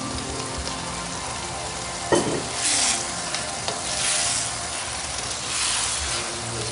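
Boiled tripe and intestine pieces frying in hot masala in a kadai, sizzling in swelling waves as a wooden spatula stirs them, with a sharp knock about two seconds in.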